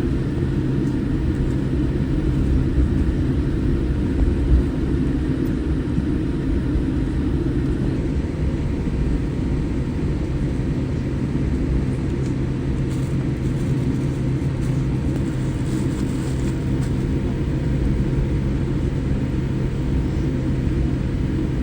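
Cabin noise inside a Boeing 787-8 airliner moving on the ground after landing: a steady low rumble with a constant low hum underneath.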